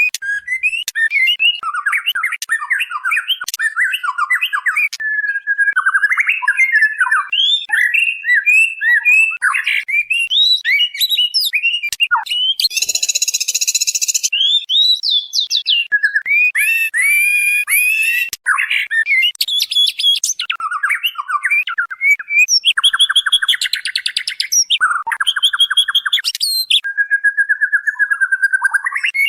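Female white-rumped shama calling: an unbroken run of quick, varied whistled phrases, broken several times by harsh buzzing rattles.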